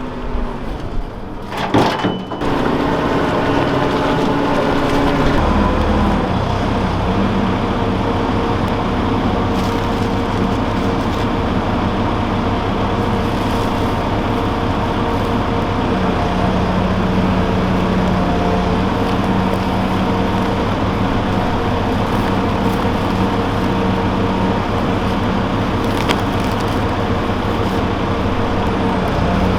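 Tractor engine catching about two seconds in after a few clicks, then running steadily with a fast low chug.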